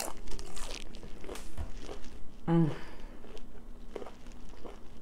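Biting into and chewing crunchy fried chicken gizzards close to the microphone, with sharp crunches near the start. A short hummed vocal sound comes about halfway through.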